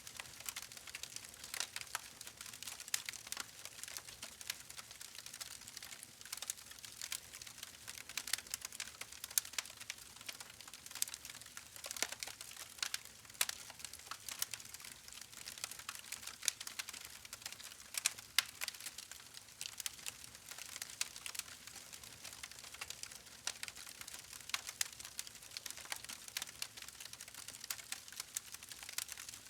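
Wood fire crackling steadily: dense irregular pops and snaps over a soft hiss.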